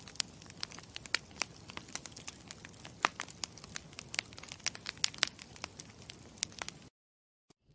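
Campfire crackling: a low hiss of burning with frequent sharp, irregular pops and snaps. It cuts off abruptly near the end.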